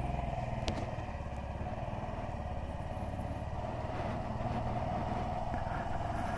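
Honda Dax 125's single-cylinder engine running steadily, with a fast, even pulsing.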